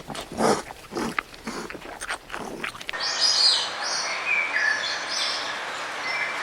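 A run of short, rough animal calls about twice a second. About three seconds in it gives way to birds chirping over a steady outdoor hiss.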